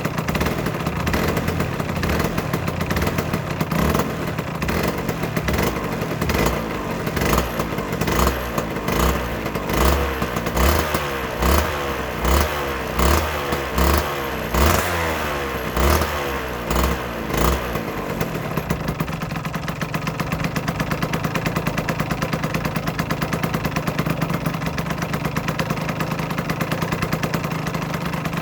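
Aprilia RS125's single-cylinder two-stroke engine running: it is blipped repeatedly, about once a second, for roughly ten seconds, then settles back to a steady idle.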